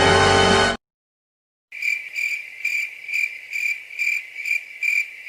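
Crickets chirping, the stock sound effect used as a gag for awkward silence: even, high chirps about twice a second, starting a couple of seconds in. Before that, the tail of a music clip cuts off abruptly less than a second in.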